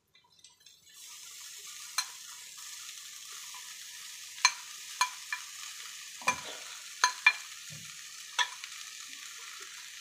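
Cooked rice tipped into a hot kadhai of vegetables frying in desi ghee: a steady sizzle from about a second in, with about eight sharp clinks of utensils against the pan.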